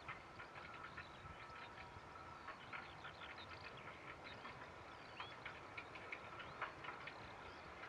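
Faint birds chirping and calling, many short chirps and hooked calls in quick succession over a steady hiss.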